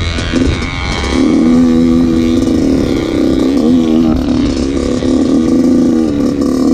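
2014 Yamaha YZ85's two-stroke single-cylinder engine revving hard under riding, its pitch wavering up and down with the throttle from about a second in.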